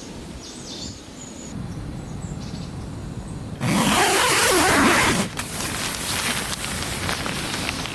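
Outdoor ambience with faint bird chirps. About three and a half seconds in, a loud rustling, scraping noise lasts over a second, then gives way to softer rustling with small clicks.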